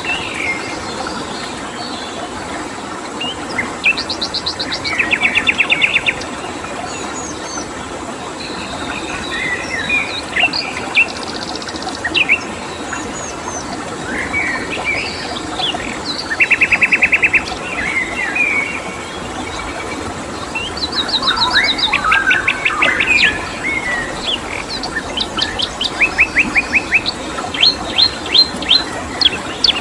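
Wild songbirds chirping and singing, with several fast trills of rapidly repeated notes that come loudest about four, seventeen and twenty-two seconds in and again near the end, over a steady rushing background.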